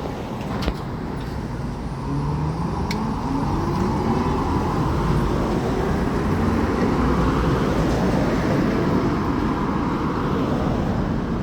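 Tatra T6B5SU tram running, its traction motors whining in a rising pitch as it pulls away and gathers speed, then holding steady over the rumble of wheels on rails.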